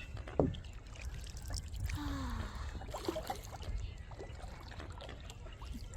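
Water trickling and lapping around a kayak, with scattered small knocks and a steady low rumble.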